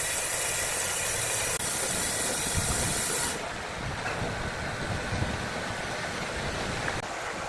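Sawmill machinery running. A steady, loud hiss, likely the saw blade in the timber, cuts off suddenly about three seconds in, leaving the lower rumble of the machine running on.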